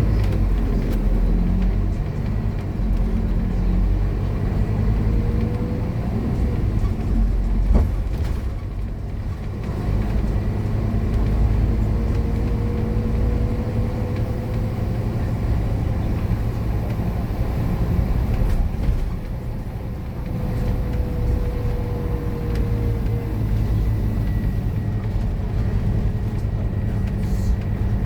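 Scania K230UB bus's five-cylinder diesel engine running hard under load, a steady low drone with a whine that rises and falls several times.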